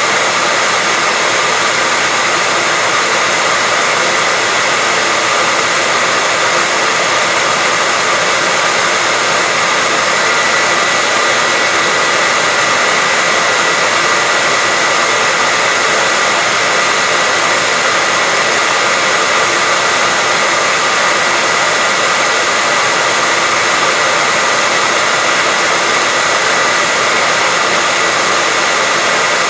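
Electric hair dryer running steadily at a constant speed: an even rushing hiss of air with a thin steady whine from the motor, used as continuous white noise to soothe a baby to sleep.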